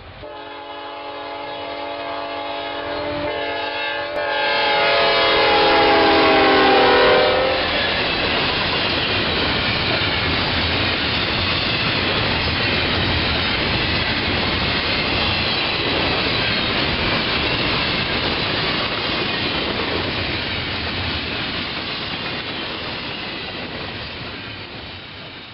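A diesel freight locomotive's multi-tone air horn sounds as the train approaches, its chord dropping in pitch as the locomotive passes about seven seconds in. Then comes the steady rumble and clatter of double-stack container cars rolling by.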